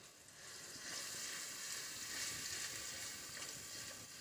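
Mashed eggplant bharta sizzling softly in hot oil in a frying pan while being stirred with a spatula, the sizzle picking up within the first second and then holding steady.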